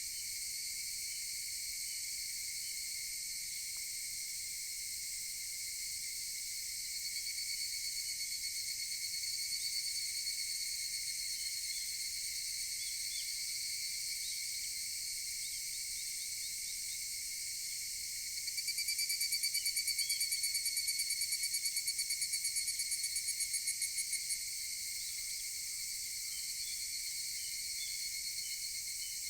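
Chorus of higurashi (evening cicadas) making a steady high drone. About two-thirds of the way in, a nearer one breaks into its pulsed, rapidly repeated kana-kana call for about six seconds, then stops suddenly.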